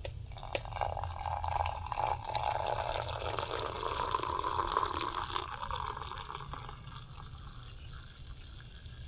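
Coffee being poured into a cup, its pitch slowly rising as the cup fills, stopping about six seconds in.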